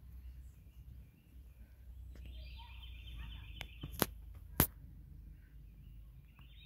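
Outdoor woodland sound: a wild bird's high, rapid trilling call about two seconds in, lasting a second and a half, and again near the end. Two sharp clicks a little over half a second apart, about four seconds in, are the loudest sounds, over a low rumble.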